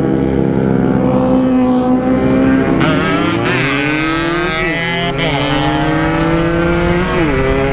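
Motorcycle engine run hard at high revs, its note dropping and climbing again twice, about halfway through and near the end, as the gears are shifted up. A second engine note joins about three seconds in.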